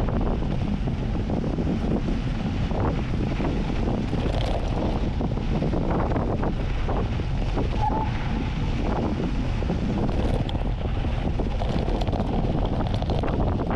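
Strong wind buffeting the microphone of a camera riding on a fast mountain-bike descent, with frequent short knocks and rattles as the bike runs over rough ground.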